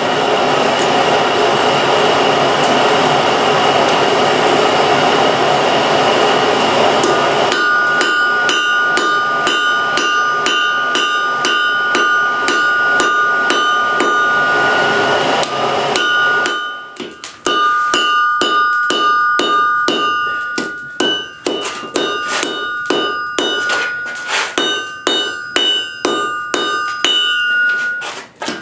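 Hand hammer striking hot spring steel on an anvil at about three to four blows a second, each blow leaving a bright ringing tone, with a couple of short pauses. For the first several seconds a steady rushing noise runs under the ring before the separate blows start.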